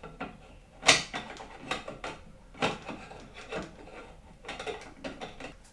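Irregular clicks and knocks from handling hardware, a dozen or so over a few seconds, the sharpest about a second in.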